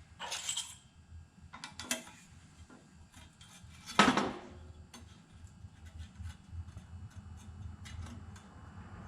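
Metal exhaust manifold pipe pieces clinking and knocking together as they are handled and test-fitted, a handful of separate knocks with the loudest about four seconds in.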